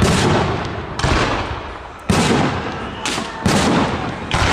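Fireworks shells bursting overhead: a string of about six loud bangs roughly a second apart, each trailing off before the next.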